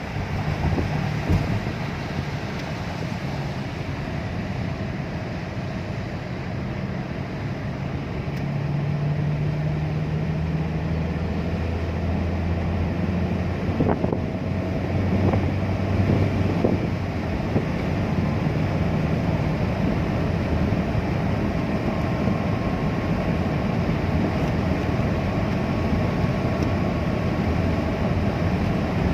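Steady road and engine noise of a car driving on a wet road, heard from inside the cabin, with a low engine hum.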